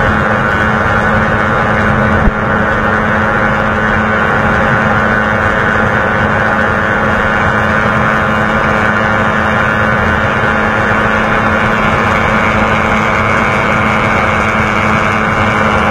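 150 cc single-cylinder motorcycle engine running at an even pace while riding at speed, with wind noise over the microphone. One sharp knock about two seconds in.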